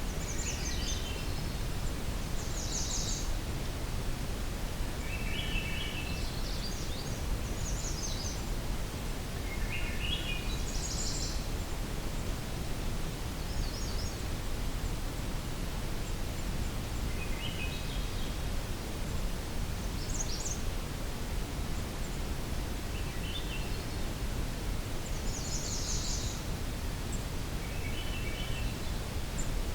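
Swainson's thrush singing short phrases that spiral upward in pitch, repeated every few seconds, over a steady low outdoor rumble.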